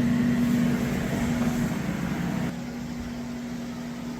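A steady mechanical hum holding one tone, with a rushing noise under it; the level drops suddenly about two and a half seconds in.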